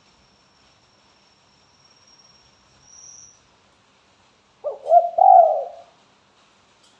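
Spotted dove cooing: a short coo followed at once by a longer, louder coo, about five seconds in. A faint steady high-pitched tone runs underneath.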